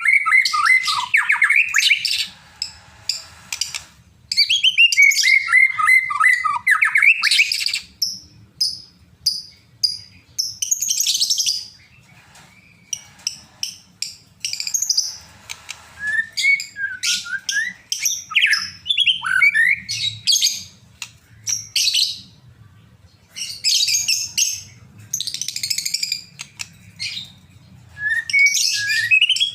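White-rumped shama (murai batu) singing a loud, varied song: two long phrases of rapid rolling notes, then sharp whistled notes and fast chattering runs with short pauses. It is an agitated, fighting-mood song of the kind used to provoke another shama into singing.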